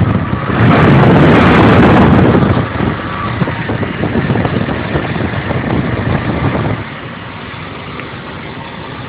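Warmed-up rebuilt 454 big-block V8 in a mud truck running loud for the first couple of seconds, then easing off, and dropping about seven seconds in to a steady idle.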